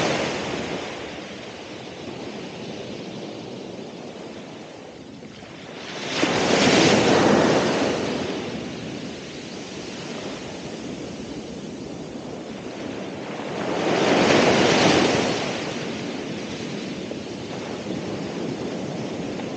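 Ocean waves breaking on the shore: two waves crash, one about six seconds in and another about fourteen seconds in, with the surf washing between them.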